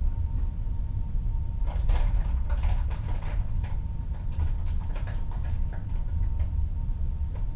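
Steady low rumble of the sea and ship heard through a cabin porthole, with a faint steady hum. For a few seconds in the middle, a run of short clicks and rattles sounds over it.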